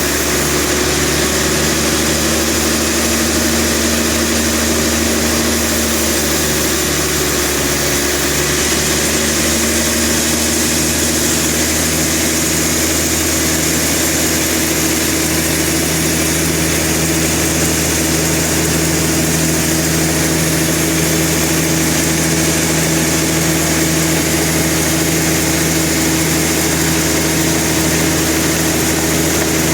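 Engine of sawmill machinery running steadily at an even pitch.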